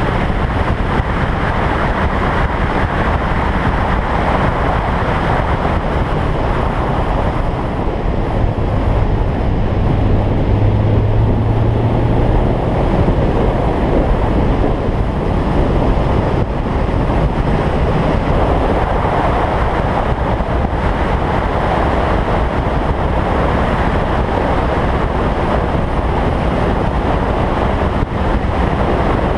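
Toyota Trueno race car lapping a circuit, heard from a camera mounted on the outside of the car: a continuous loud rush of wind and road noise with the engine running underneath. A steady low engine note stands out for a few seconds around the middle.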